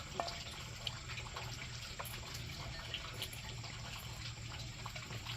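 Steady rush of water with scattered small clicks and ticks over it.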